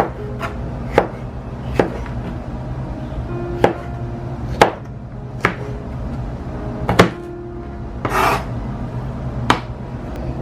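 Knife chopping on a cutting board in single, unevenly spaced strokes, about eight sharp knocks, with a short scrape near the end. Soft background music plays underneath.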